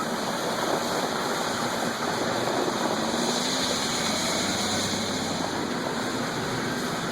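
Rock crusher running steadily while fed No. 4 stone: a dense, continuous noise of rock being broken and tumbling through it, mixed with engine noise.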